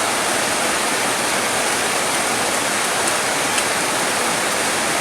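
Steady, dense rainfall: an even hiss of rain with no let-up, and a couple of faint single-drop ticks about three seconds in.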